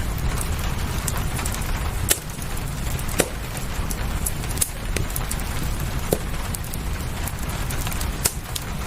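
Steady rain with a fireplace crackling, about five sharp pops standing out at irregular moments over the hiss.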